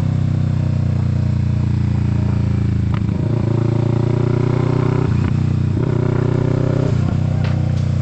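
Kawasaki Z650's parallel-twin engine running under way, its note shifting several times from about three seconds in as throttle and revs change.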